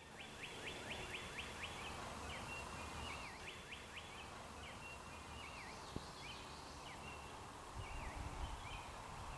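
Songbird singing repeated phrases of quick chirping and sweeping notes over a faint, steady outdoor hiss.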